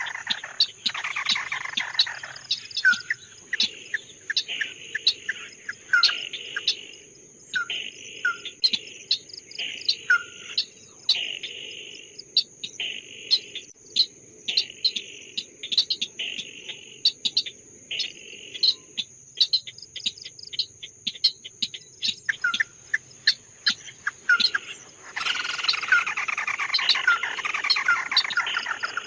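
Songbird calling: a run of short sharp chirps and buzzy rasping notes, with dense chattering song at the start and again from about 25 seconds in. A steady high insect-like trill runs underneath.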